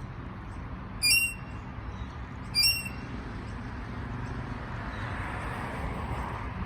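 A parrot giving two short, shrill calls about a second and a half apart, over a steady low background noise.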